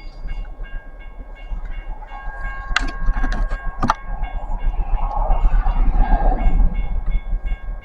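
Norfolk Southern train approaching, its diesel locomotive's low rumble building gradually, with a few sharp clanks about three and four seconds in.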